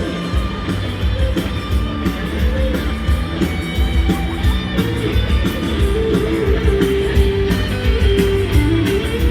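Live rock band playing an instrumental break between sung verses: guitar over a steady drum beat, with a lead melody line coming in about halfway through.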